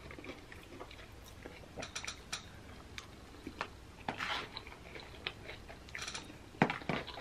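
Close-up chewing and crunching of cheese-covered nacho chips, with scattered light clicks of a plastic fork in a foam takeout container.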